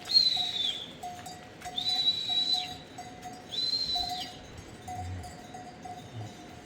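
Three high, steady whistled notes, each lasting under a second and dropping slightly at the end, about a second and a half apart, over faint, short, repeated lower tones.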